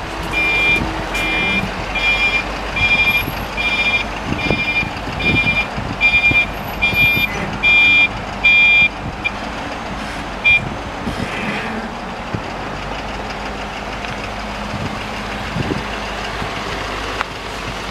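A truck's back-up alarm beeping steadily, a little more than once a second, over a running engine. The beeping stops about nine seconds in, with one more short beep a second later, and the engine keeps running.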